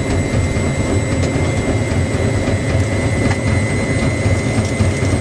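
Front-loading washing machine spinning at high speed: a loud, steady low drone with a thin, steady high whine over it.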